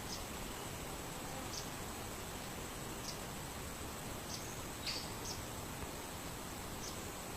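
A bird giving short high chirps, one about every second and a half, over a steady hiss with a faint high whine.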